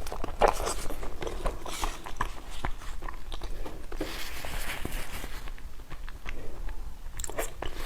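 Close-up chewing and mouth sounds of someone eating steamed pumpkin-and-pork dumplings, with irregular small clicks and wet smacks.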